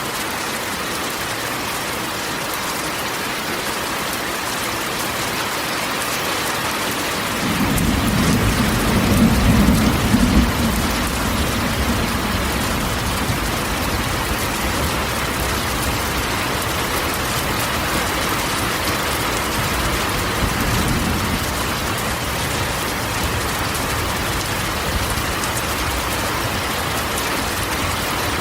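Steady rain drumming on a corrugated metal roof. A low roll of thunder comes in about a quarter of the way through, is loudest a couple of seconds later, and then rumbles away slowly.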